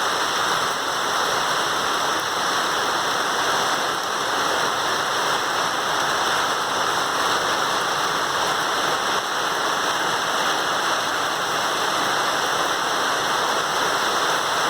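Heavy rain falling, a steady, dense hiss that does not let up.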